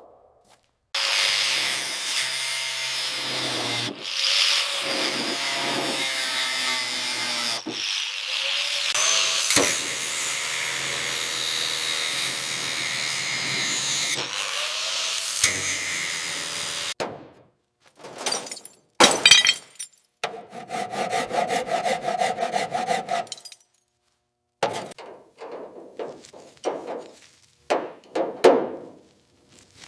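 Power tool running in long steady stretches, joined by edits, followed by a series of shorter separate tool sounds with brief gaps between them.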